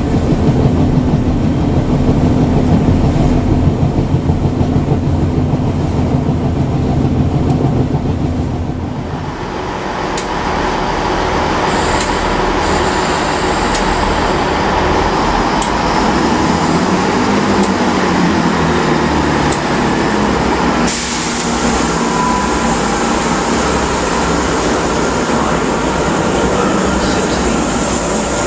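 Running noise of a train heard from inside the carriage, a dense low rumble. About nine seconds in it changes to station platform sound: a GWR Class 166 Turbo diesel unit running at the platform. A sudden change about two-thirds of the way through leads to a GWR Intercity Express Train moving off along the platform.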